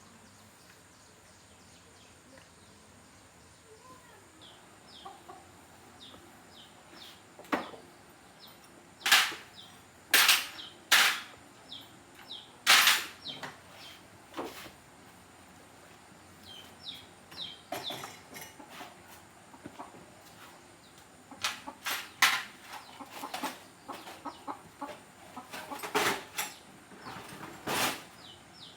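Chickens clucking, with irregular sharp clicks and knocks, a few of them loud, and faint short chirps between.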